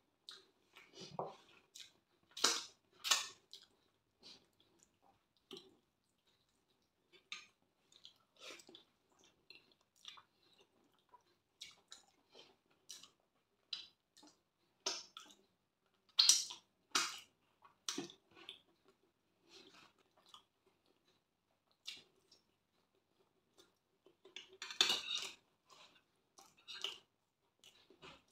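Close-miked eating sounds: chewing and wet mouth clicks from a person eating fried plantain and rice by hand, coming in short scattered bursts with brief pauses between.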